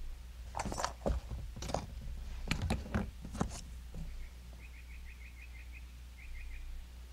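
A few sharp rustling, clattering handling noises in the first half, then a small bird chirping in quick runs of short high notes.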